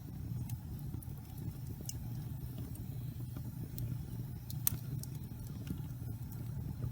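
Wood fire burning in a fireplace: a steady low rumble of flames with scattered sharp crackles and pops, one louder pop about two-thirds of the way through.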